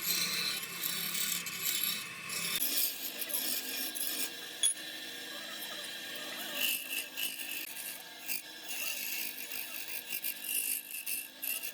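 Wood being scraped and rubbed, a rasping, scratchy noise that goes on in uneven strokes, as in turning or sanding wood on a lathe. A low hum under it stops abruptly about two and a half seconds in.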